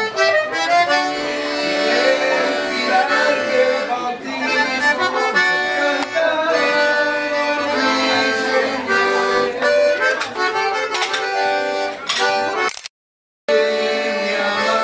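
Accordion-led music playing a melody. The sound cuts out completely for under a second near the end.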